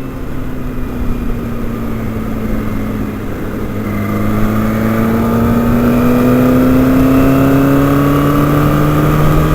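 Motorcycle engine, a Kawasaki Ninja ZX6R inline-four, heard from the rider's helmet. The engine note sags slightly at first, then climbs steadily and grows louder from about four seconds in as the bike accelerates.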